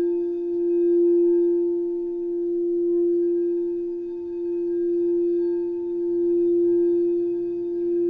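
Singing bowl sounding one sustained tone with a few fainter overtones, its loudness swelling and fading in a slow pulse roughly every two seconds.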